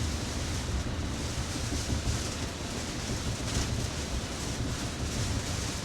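Steady noise of a Tesla driving on a wet road in heavy rain, heard from inside the cabin: tyre hiss and rain on the car over a low road rumble.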